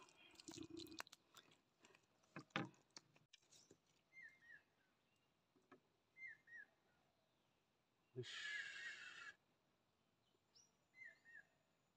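Near silence: a small bird's faint short chirps, a quick two-note call heard three times. A brief rush of noise comes about eight seconds in.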